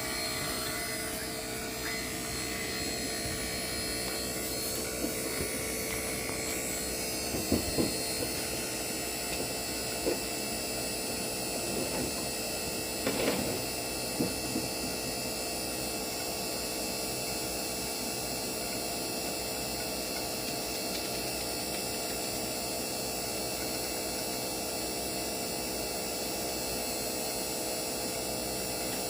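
Battery-powered Hercules 2 CFM vacuum pump running steadily with a hum while evacuating a split-system heat pump's refrigerant lines. A few light knocks sound around 8, 10 and 13 seconds in.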